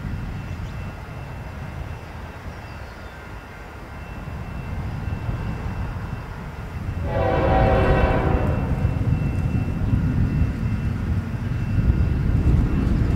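Approaching CN diesel freight train, its low engine and rail rumble growing louder as it nears. About seven seconds in, the lead locomotive sounds one blast of its air horn, lasting about a second and a half.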